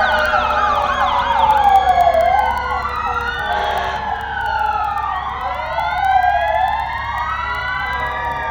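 Several fire truck sirens wailing together, each rising and falling slowly in overlapping cycles, with a fast warbling siren near the start. A steady low rumble of engines runs underneath.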